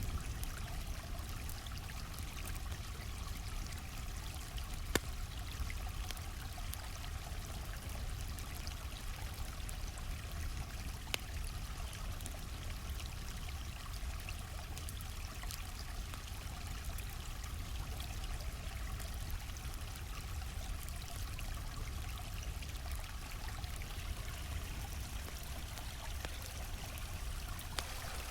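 Steady rush and trickle of a flowing stream, with scattered sharp pops of a crackling campfire; two pops stand out, about five and eleven seconds in.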